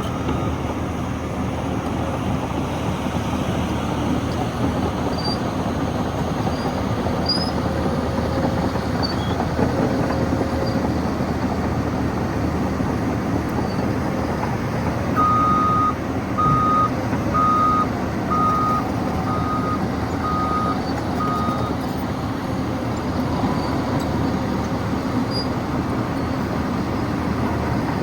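Caterpillar 963 track loader's diesel engine running steadily under work, with its reverse alarm beeping about seven times, roughly once a second, around the middle.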